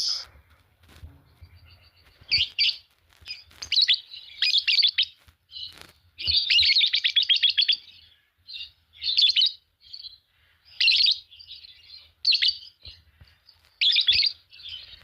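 A pair of Fischer's lovebirds chirping and chattering in short, high-pitched bursts, with a longer run of rapid chatter about six seconds in.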